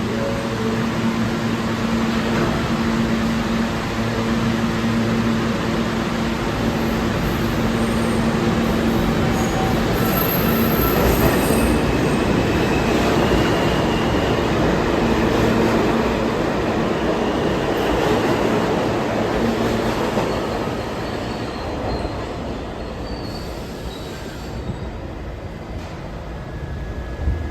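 New York City subway train moving through a station, with a steady rumble, wheel noise on the rails and a few brief high wheel squeals. It grows loudest around the middle and fades over the last few seconds.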